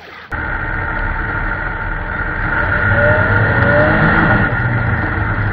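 A loud, steady vehicle-like rumble and roar that starts suddenly just after the beginning, with a faint rising whine about three seconds in.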